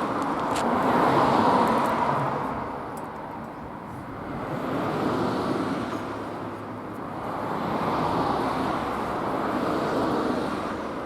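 Background road traffic: a rushing noise that swells and fades about four times as vehicles pass, with a few faint clicks.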